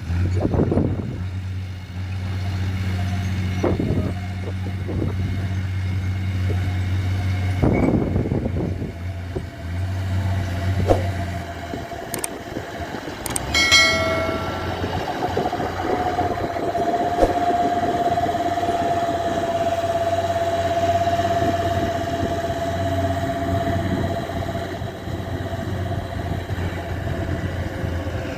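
Dump truck engine running steadily. About halfway through there is a short sharp sound, and after it a steady whine holds over the engine.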